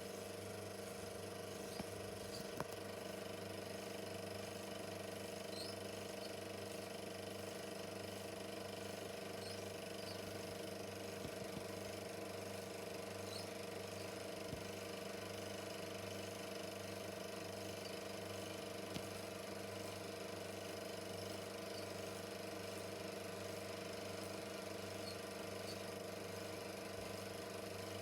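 Super 8 film projector running steadily, a continuous mechanical whirr and clatter from its motor and film transport, with a few faint clicks.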